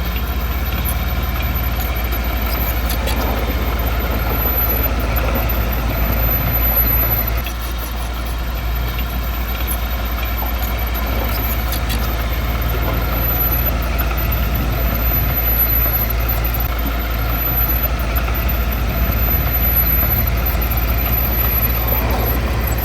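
Heavy diesel engine of earth-moving machinery running steadily, dipping briefly about seven and a half seconds in.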